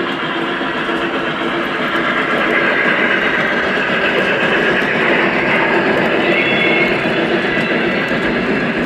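Lionel O-gauge model steam locomotives pulling passenger cars on the layout track, giving a steady whir and rumble of motors and wheels on rail. The sound swells a little in the middle as the trains come closer.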